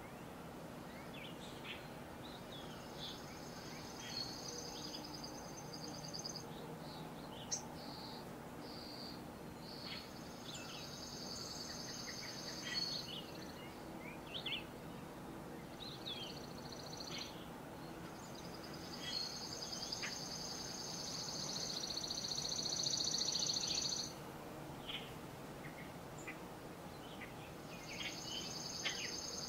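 Woodland birds singing: a long, high, even trill of three to five seconds comes four times, with scattered short chirps from other birds between them. A faint steady low hum lies underneath.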